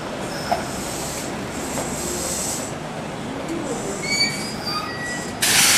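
Kintetsu electric train running past on the rails, a steady rumble with brief high wheel squeals about four seconds in. It ends with a short, loud hiss.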